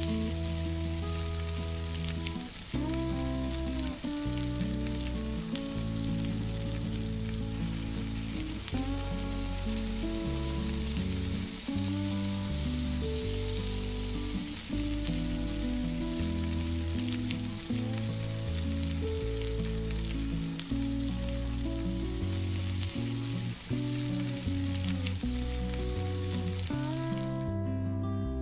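Chopped chili sambal sizzling as it sautés in coconut oil in a frying pan, with background music and a steady bass line throughout. The sizzle stops near the end.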